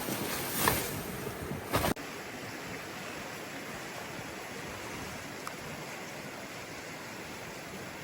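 Steady wind noise, changing abruptly about two seconds in to an even, unbroken rush.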